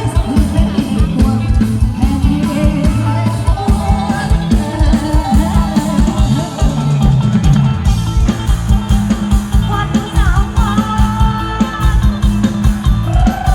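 Live Thai ramwong band music with a steady, quick drum beat, bass and guitar, played loud through the PA.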